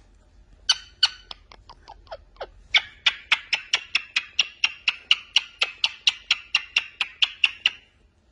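Parrot making kissing sounds: a long run of short wet smacks, a few spaced ones first and then a quick even series of about four a second.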